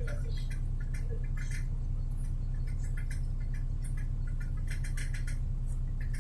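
Inside a moving city bus: a steady low drone of the engine and road, with bursts of fast high ticking and rattling about a second in and again around five seconds in.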